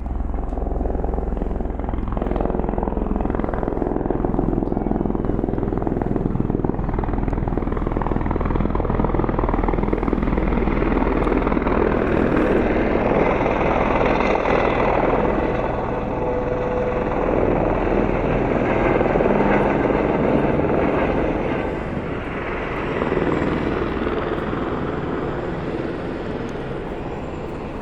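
Helicopter's rotor and engine running loud and steady, easing off over the last few seconds.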